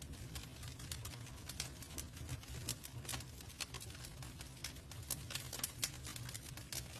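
Wood fire burning with irregular crackles and pops, several a second, over a steady low rumble of flame.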